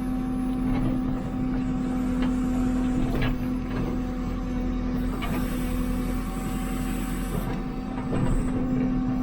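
JCB 3CX backhoe loader's diesel engine running steadily under work, heard from inside the operator's cab, with a few faint knocks and a high hiss for about two seconds in the middle.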